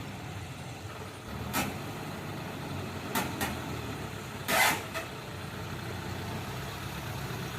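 Kubota harvester's engine running steadily, with a few short sharp knocks over it, the loudest a little past halfway.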